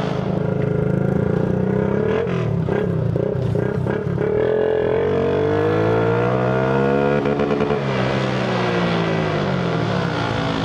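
Small motorcycle engines, among them a tuned Shineray Phoenix 50cc, running and revving together on the move. Their pitches rise and fall and cross over one another.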